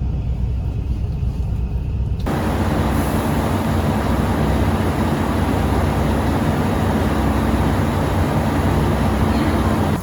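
Moving train running with a steady low rumble, then about two seconds in a sudden, loud, even rushing noise that holds steady.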